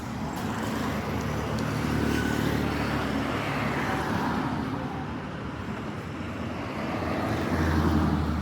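Road traffic: motor vehicles running past, swelling twice, once about two seconds in and again near the end.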